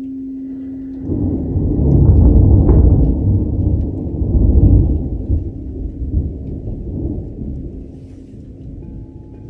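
A long roll of thunder breaks in about a second in, a low rumble loudest for the next few seconds and slowly dying away over rain. A crystal singing bowl's tone fades out at the start, and another, higher bowl tone begins near the end.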